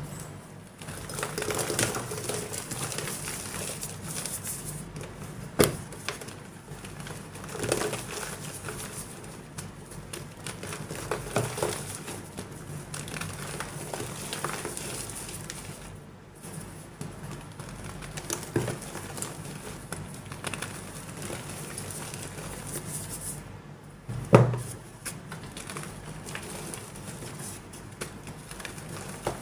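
Soft gym chalk being crumbled and crushed, a continuous gritty crackle with louder crunches every few seconds. Two sharp cracks stand out, one about six seconds in and a louder one late on.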